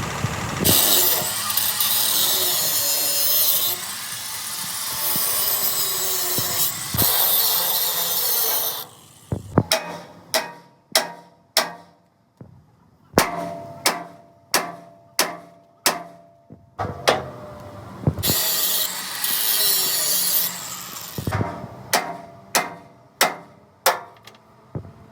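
Hammer blows on steel in a truck repair workshop, about two strikes a second, each with a short metallic ring. These come in two runs, broken up by stretches of harsh, rasping tool noise.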